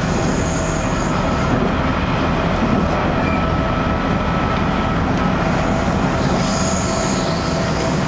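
Steady running noise heard inside an electric commuter train carriage: wheels on the rails and the car's rumble, with a faint steady hum. A thin high squeal rises at the start and again about six seconds in.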